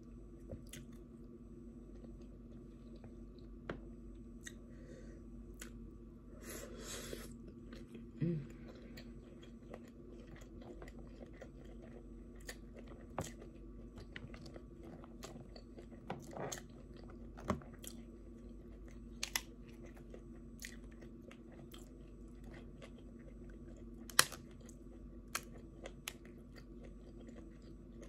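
Close-up chewing and biting while eating crab, with scattered sharp clicks and cracks from the shell and one louder crack late on. A steady low hum runs underneath.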